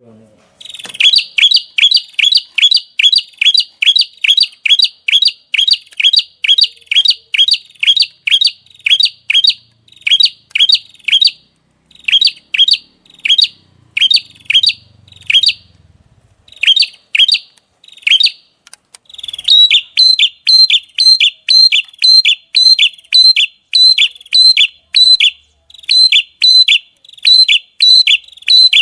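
A songbird calling a long, fast run of short, sharp chirps, about two to three a second, broken by brief pauses. From about two-thirds of the way through, each chirp takes on a sharper, higher-pitched edge.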